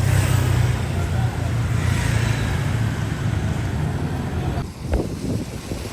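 Street traffic: a motor vehicle engine running with steady road noise, easing off near the end.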